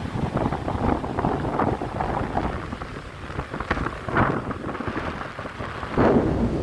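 Baltic Sea waves washing onto the shore, with wind buffeting the microphone as a low rumble; the surf swells up again near the end.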